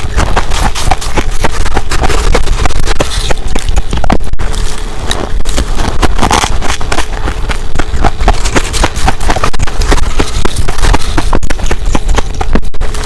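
Ice being bitten and chewed right at the microphone: a dense, unbroken run of crisp crunches and cracks.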